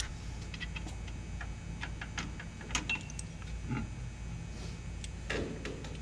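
Scattered light clicks and taps of chopsticks against noodle bowls during a meal, irregular and a few per second, over a low steady hum.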